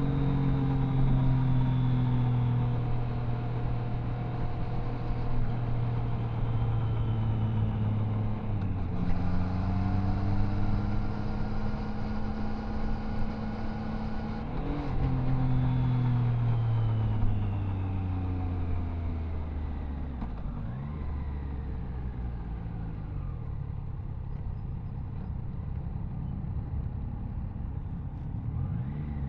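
Triumph Tiger Sport 660's inline three-cylinder engine heard from the rider's seat as the bike slows: the engine note falls steadily, with gear changes about nine and fifteen seconds in, then settles to a low steady note at low revs from about twenty seconds in, with a short rev near the end.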